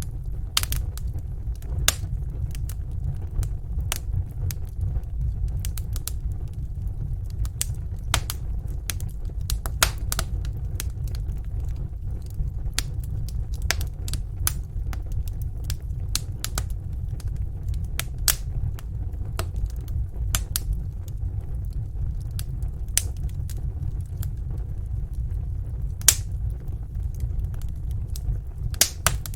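Wood fire burning in a fireplace: a steady low rumble with irregular sharp crackles and pops, with one louder pop near the end.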